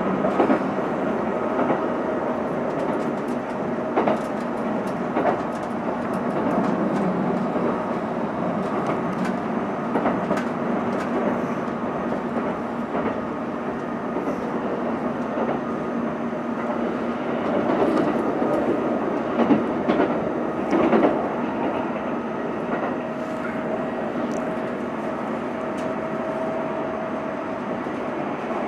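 Kintetsu limited express train running, heard from inside the carriage: a steady rumble of the wheels on the rails with scattered sharp knocks from the track, and a faint steady tone near the end.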